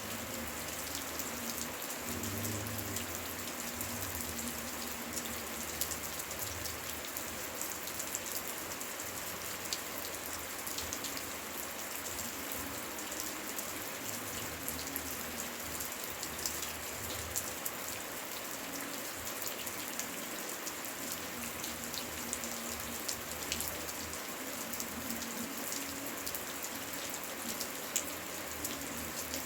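Steady heavy rain: an even hiss with many sharp drop ticks running through it.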